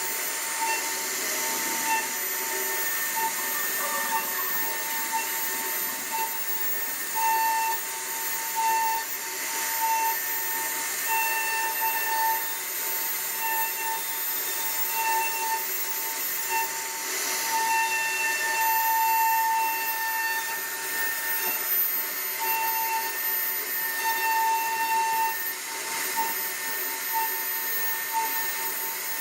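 CNC router carving wood: a steady high spindle whine that swells and eases every second or so as the bit takes and leaves the cut, over a constant hiss of cutting and dust.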